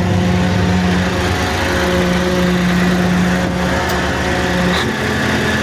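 Cummins 903 V8 diesel engine running at a steady idle, its pitch stepping up a little about five seconds in as the revs rise on the throttle.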